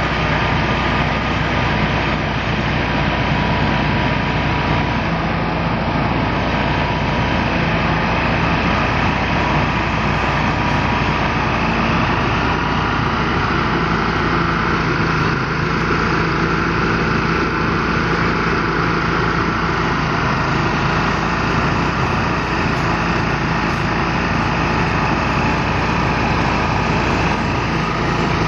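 Motorised threshing machine running at a steady speed: a loud, even engine-driven drone with a constant hum and a faint steady whine.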